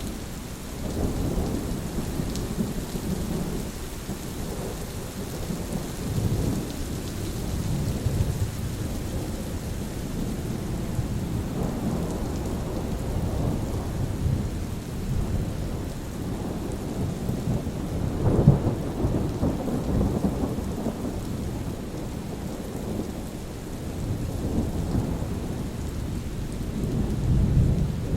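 Steady rain with thunder rumbling again and again, low rolling swells that peak about two-thirds of the way through and build again near the end.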